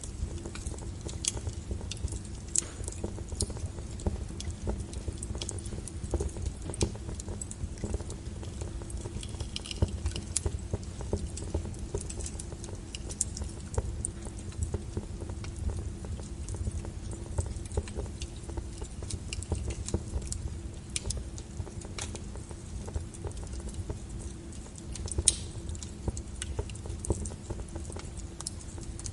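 Log fire burning in a fireplace: irregular sharp crackles and pops over a steady low rumble of the flames.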